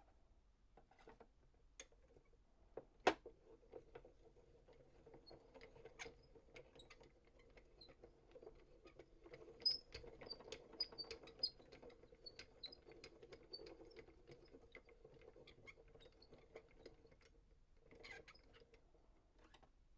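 Faint scattered clicks, taps and light rustles of small craft items and packaging being handled, with a few sharper clicks, over a faint steady hum that starts about three seconds in and fades near the end.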